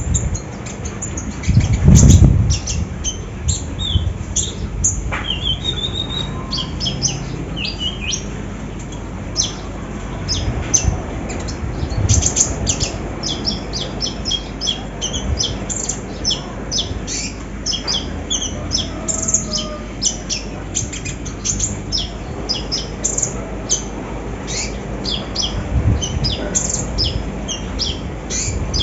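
Konin songbird singing a dense, rapid-fire song of short high chirps with little pause between them. A rising whistled note comes about five seconds in. A loud low thump sounds about two seconds in.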